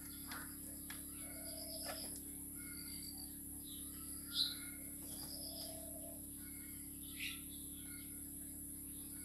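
Scattered short, high bird chirps, the loudest about halfway through and another near the end, over a faint steady hum. A few sharp taps come near the start as chickens peck grain from a bowl.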